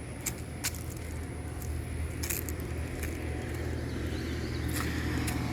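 Low rumble of a motor vehicle, gradually getting louder, with a few sharp clicks and light jingles over it.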